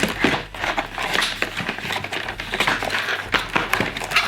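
Scissors snipping and plastic packaging rustling and crinkling as a toy sewing machine is cut out of its box, in a quick irregular run of clicks and crackles.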